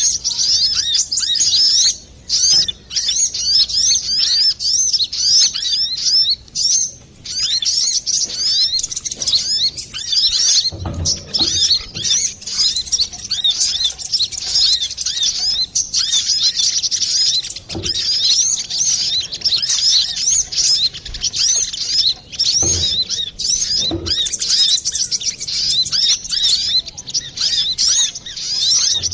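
Brown-throated sunbird (kolibri kelapa) singing busily: a rapid, almost unbroken stream of high twittering chirps, a lure recording. There are a few dull low thumps along the way.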